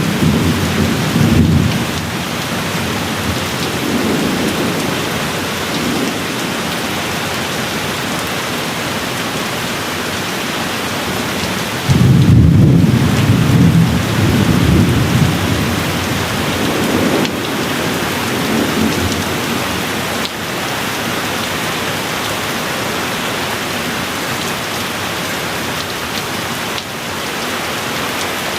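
Steady rain with rolling thunder. A loud rumble of thunder comes in suddenly about twelve seconds in and rolls on for a few seconds, with softer rumbles near the start and again a few seconds later.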